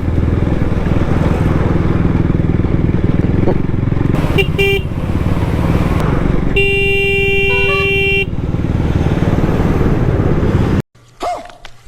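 Motorcycle engine running steadily while riding in traffic, with vehicle horns honking: two short toots about four and a half seconds in, then one long horn blast about two seconds later. The sound cuts off abruptly near the end.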